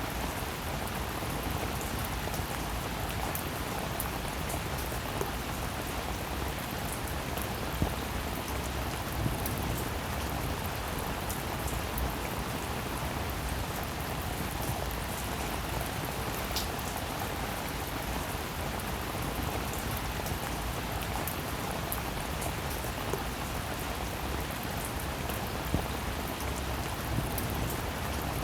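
Steady rainfall, a dense even hiss with individual drops ticking sharply here and there.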